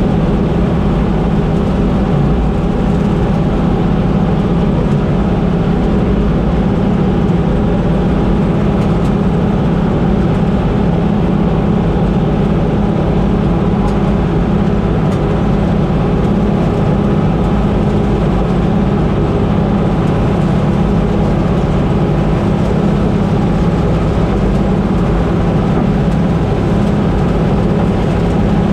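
Combine harvester running steadily at harvest, a constant loud engine and machinery drone that does not change.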